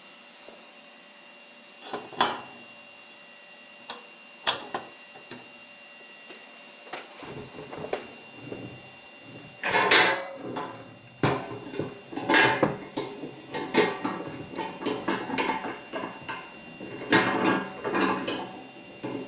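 Intermittent clicks and knocks, then a busier stretch of clattering and rustling from about halfway: the handling of a small metal kerosene hurricane lantern and its parts.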